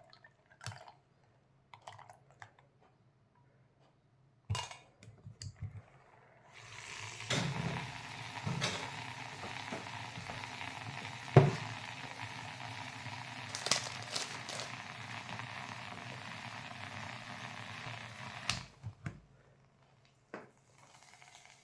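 A steady hiss lasting about twelve seconds, with a few sharp clinks and knocks over it, after some faint scattered ticks.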